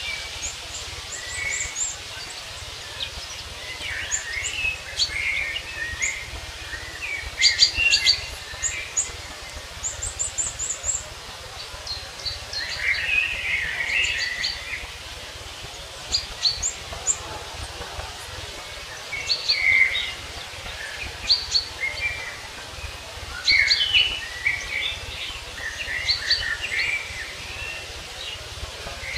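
Several small songbirds chirping and singing, with short overlapping calls and trills throughout, over a steady low background rumble.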